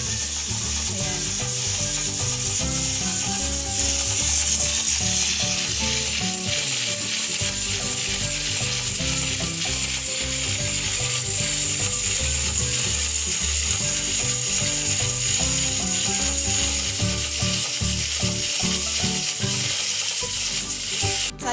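Aluminium pressure cooker on a gas flame, its weight valve rattling and steam hissing steadily: the cooker has come up to pressure.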